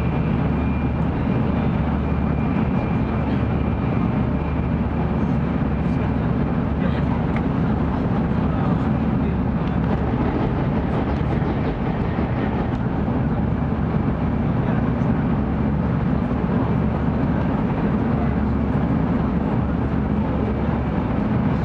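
Interior running noise of a Tokaido Shinkansen 700 series train travelling at speed, heard from inside a passenger car: a steady low rumble with hiss.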